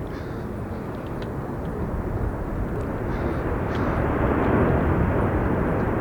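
Jet aircraft passing close by, its engine rush swelling over the first few seconds and staying loud.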